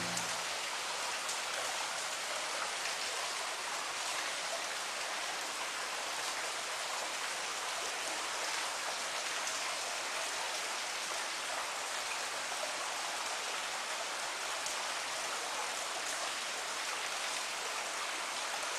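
Steady rain: an even hiss of falling drops, with no change in level.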